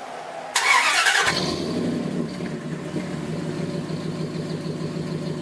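An engine starts with a loud burst about half a second in, then settles into a steady idle.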